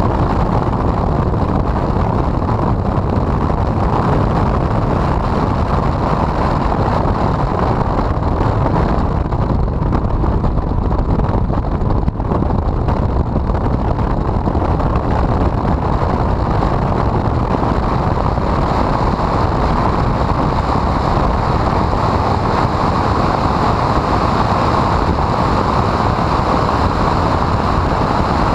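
Honda CRX lapping a circuit, heard through an onboard camera's microphone: engine and wind noise run together as a loud, steady rush with no clear engine pitch, in poor sound quality.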